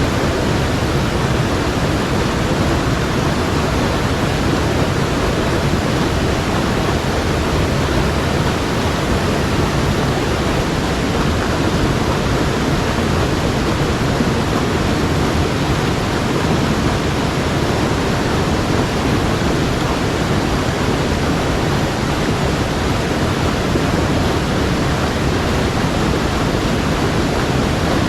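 Mountain stream water rushing steadily over rocks, a loud unbroken noise.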